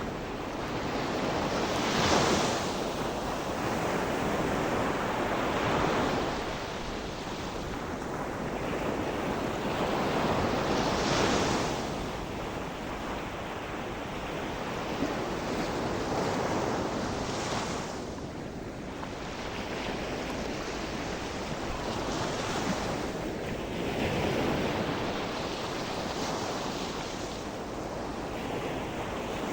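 Sea waves breaking on a shore, one surge every four to six seconds over a steady wash of surf, with some wind noise on the microphone.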